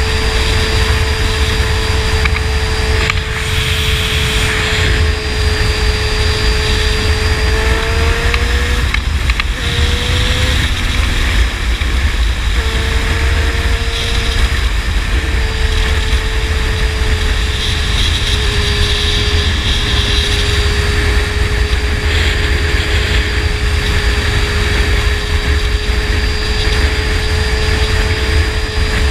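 A 600cc inline-four sport bike with a slip-on exhaust running steadily at cruising speed, its engine note rising and breaking off a couple of times about a third of the way in before settling again. Wind rumble on the microphone sits underneath.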